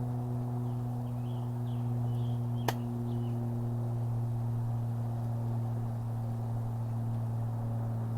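A steady low hum throughout, with a few short, faint bird chirps in the first half and a single sharp click about two and a half seconds in.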